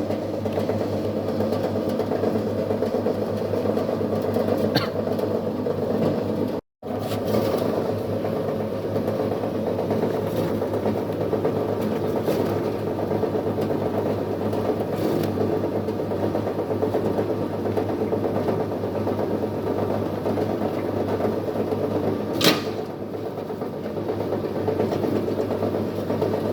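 Electric chicken-meat shredding machine running steadily, a continuous motor hum, with one sharp knock near the end.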